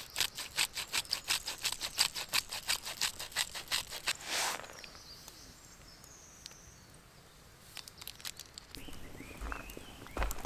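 A quick, even series of scratchy strokes, about seven a second for about four seconds, ending in one longer stroke; then a few faint clicks.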